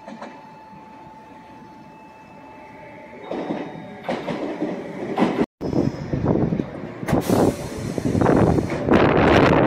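Meitetsu electric train on the Nagoya Main Line running along the platform track, its rumble and rail clatter building from about three seconds in. After a brief gap it grows loudest near the end.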